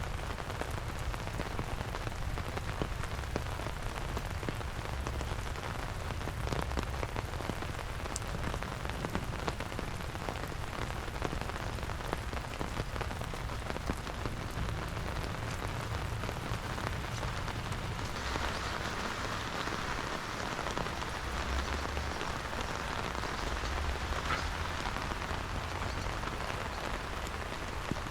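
Steady rain falling, with many small drop ticks; the rain's hiss grows heavier about two-thirds of the way through.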